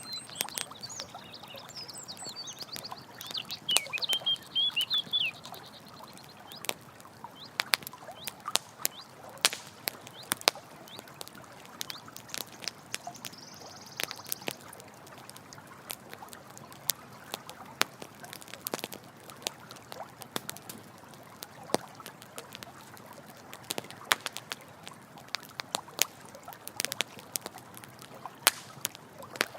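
Campfire crackling, with frequent sharp pops and snaps, over a steady rush of running water. Birds chirp briefly in the first few seconds.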